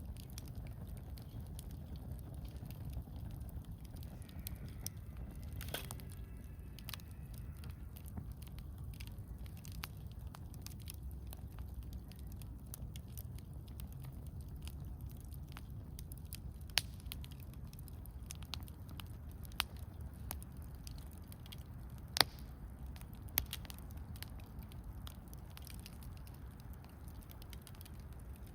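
Wood campfire burning, with a steady low rumble and constant faint crackling, and four louder sharp pops from the wood in the second half.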